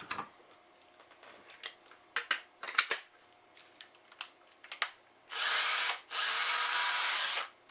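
Ryobi 18V cordless drill: a few clicks and knocks as it is handled, then the motor spins up and runs at speed in two bursts with a brief stop between them. The drill is working on a recharged battery that had been reading as bad.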